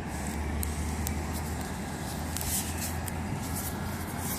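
Metra commuter train standing at the station platform, running with a steady low rumble, with several short hisses and clicks.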